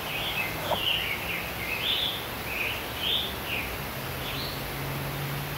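A songbird singing a string of short, quick warbled phrases, about two a second, over a steady hiss of forest background noise.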